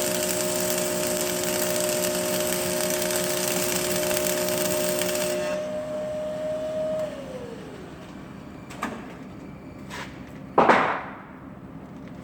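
A power tool's motor runs with a steady whine and a hiss, is switched off about five seconds in, and its whine falls away as the motor winds down. Then come a couple of light knocks and a loud clank near the end.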